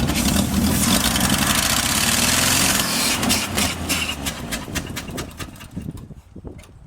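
1962 Ford F-350's engine firing and running on fuel poured into the carburetor, loud for about three seconds, then fading as it dies away.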